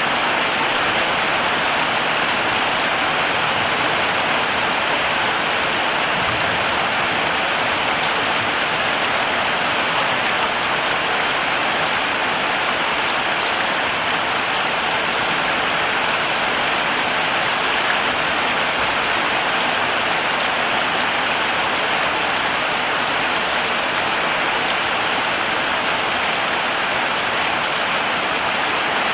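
Heavy rain falling steadily, an even hiss of many drops with no let-up or change.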